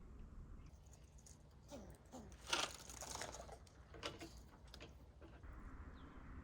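Walnuts being handled by hand: soft rustling and crackling, loudest in a short crunch about two and a half seconds in, with a single click about four seconds in, over a low steady rumble.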